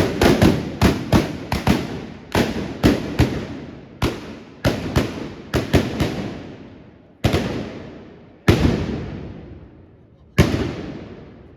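Trabucs (Catalan black-powder blunderbusses) firing blank charges in a ragged volley: about fifteen loud shots close together over the first six seconds, then three single shots a second or two apart. Each blast trails off in a long echo.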